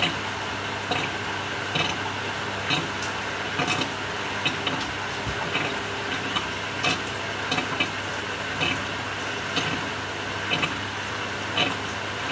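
Samsung 6.5 kg top-loading washing machine running mid-cycle: a steady motor hum with short, sharp sounds repeating irregularly about once or twice a second.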